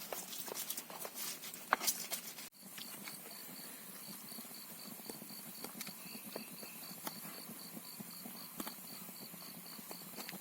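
Raindrops pattering irregularly on tent fabric. After a cut about two and a half seconds in, a steady faint rain hiss with scattered drips and a high, rapidly pulsing chirp.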